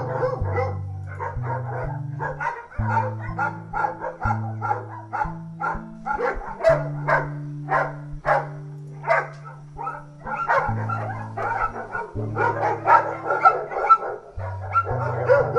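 A chorus of many dogs barking together in quick, overlapping barks, over background music with a steady bass line.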